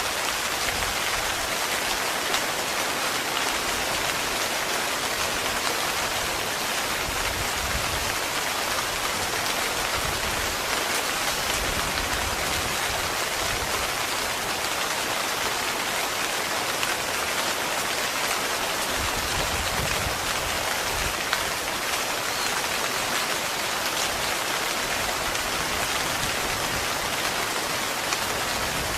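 Heavy rain falling steadily on a tent, a dense, even patter.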